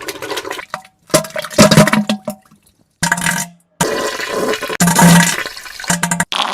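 Edited run of toilet sound effects: wet diarrhea splatters and fart buzzes mixed with a toilet flushing, in several loud clips that start and stop abruptly.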